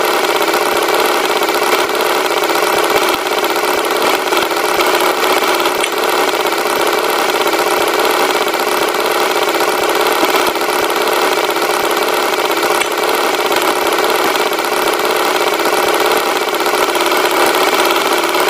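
Tractor engine sound effect running steadily at an even pitch, a constant mechanical drone with no revving.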